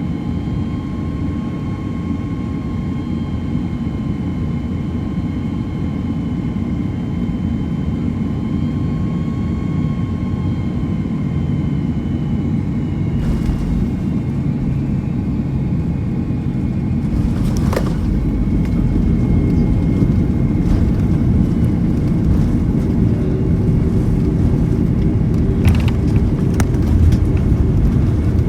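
Steady low rumble of a moving vehicle heard from inside its cabin, with faint steady whine tones, growing slowly louder. A few brief knocks.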